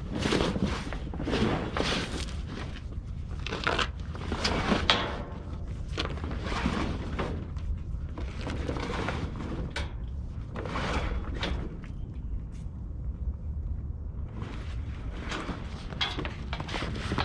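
A heavy truck tarp being pulled and folded over a flatbed load: a run of irregular rustling, crinkling swishes, with a lull about twelve seconds in, over a steady low rumble.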